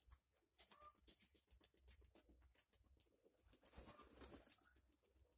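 Nikolaev pigeons, heard faintly: scattered soft clicks and rustles with a couple of brief pigeon calls.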